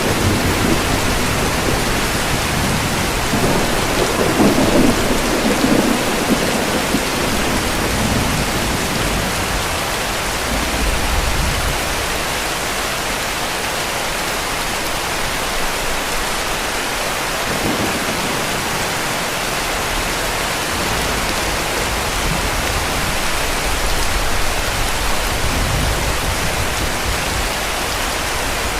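Heavy rain falling steadily, with low rumbles of distant thunder swelling and fading. The strongest rumble comes about four to six seconds in.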